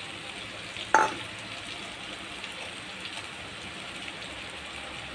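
Rendang spice paste frying in oil in a wok, a steady even sizzle as it is fried down until crisp. There is one brief knock about a second in.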